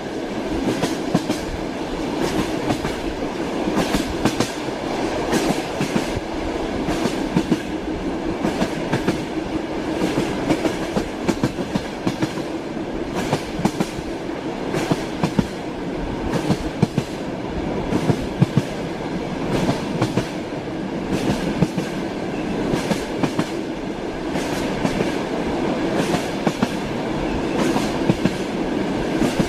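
Train wheels clattering over the rail joints, heard from inside a moving carriage: a steady rumble with many short, sharp knocks.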